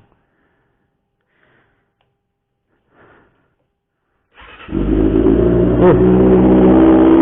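Kawasaki Ninja ZX-25R's inline-four engine starting about four seconds in through a homemade loud aftermarket exhaust, then idling steadily with a deep, fierce exhaust note.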